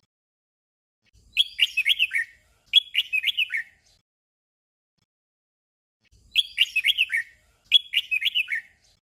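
Red-whiskered bulbul singing its short 'double' song: a brief warbled phrase given twice in quick succession. The pair comes once, then again after a pause of about two and a half seconds.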